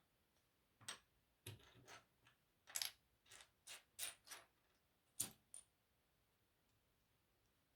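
Plastic LEGO pieces clicking and clattering as they are handled and pressed together: about ten faint, sharp clicks at uneven intervals, stopping about six seconds in.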